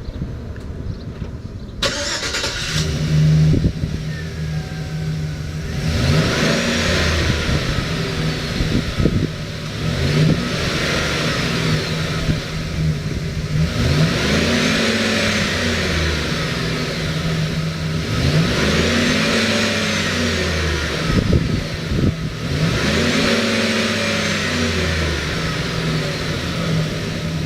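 2016 Chevrolet Express 2500 van engine cranking and catching about two seconds in, settling to a steady idle, then revved five times, each rev rising and falling back to idle, about every four seconds.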